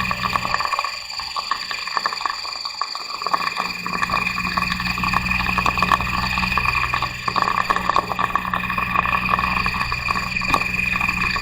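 Car engine and transmission running, with a steady high-pitched whine over a low drone. The low drone falls away from about a second in until about four seconds in, then comes back while the whine carries on.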